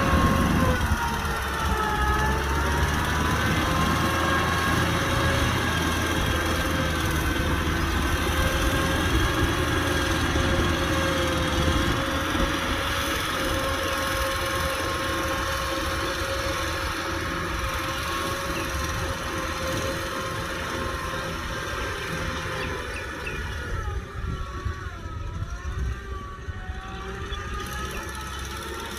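Kubota tractor's diesel engine running steadily. Its pitch dips briefly about two seconds in and again near the end, and it fades slowly.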